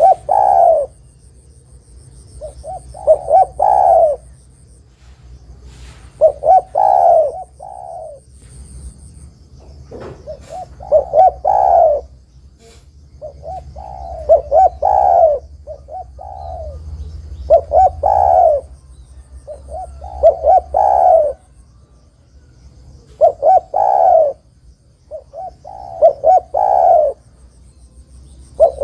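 Spotted dove (tekukur) cooing: about nine phrases, one every three seconds or so, each a few short coos running into a longer, stressed coo. A faint, high, thin whine comes and goes behind them.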